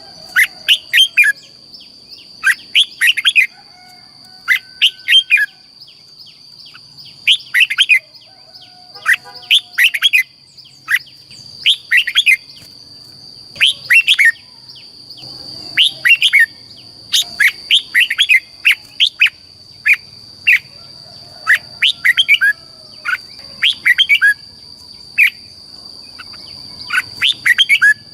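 Red-whiskered bulbul singing: short, loud, chirpy phrases repeated every second or so with brief pauses between, the song used to stimulate and train caged bulbuls. A steady high tone runs underneath.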